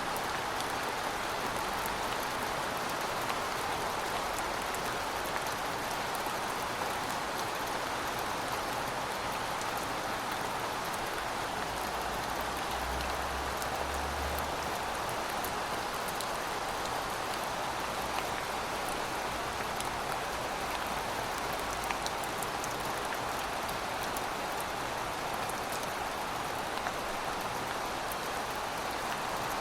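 Steady rain falling, an even hiss with scattered drop ticks, and a faint low rumble about halfway through.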